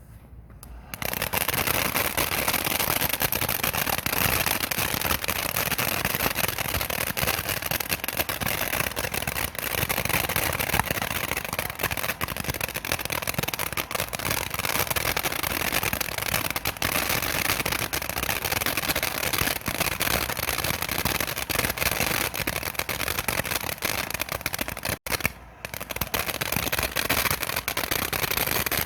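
Prehistoric Fire ground fountain firework spraying: it starts suddenly about a second in, then runs with a steady loud hiss full of fine crackling, breaking off briefly near the end.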